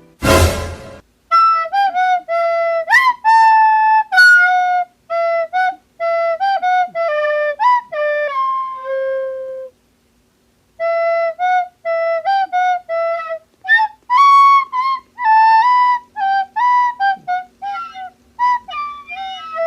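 A brief loud burst of noise, then a flute-like woodwind playing a melody of short separate notes; the tune stops for about a second midway and then carries on.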